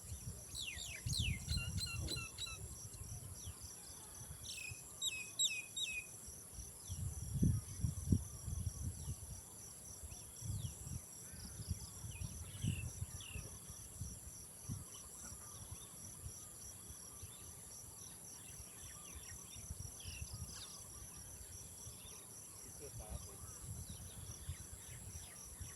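Insects trilling in a steady, high, pulsing drone, with birds giving quick falling chirps, several in a row in the first few seconds and a few more later. Irregular low rumbling comes and goes underneath, loudest about eight seconds in.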